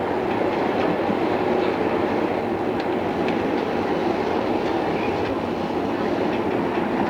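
Odakyu 2600 series electric commuter train running at a steady speed, heard from on board: a continuous rumble of wheels on rail with a few faint clicks of rail joints. The sound carries the hiss of a cassette tape recording.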